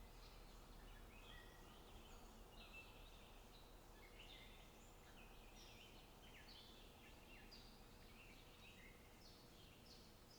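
Faint outdoor ambience: a continuous chorus of small birds giving many short, overlapping chirps and quick falling notes, over a low steady rumble.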